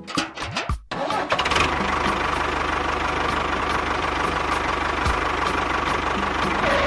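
A motor starts about a second in and runs steadily with a constant whine, then cuts off at the end.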